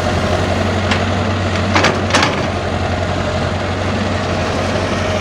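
Diesel engine of a Cat 311C excavator running steadily while it loads a tractor trolley, with a light knock about a second in and two louder sharp knocks close together near two seconds.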